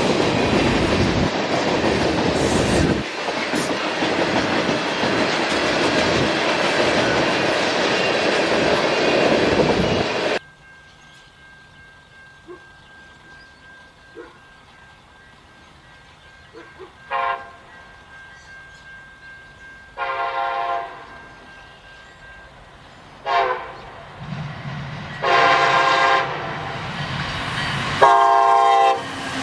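A freight train rolls past close by, with loud steady wheel and rail noise, which cuts off abruptly about ten seconds in. Then a diesel locomotive horn sounds five separate blasts, short and long, each louder than the last, ending in a long blast near the end.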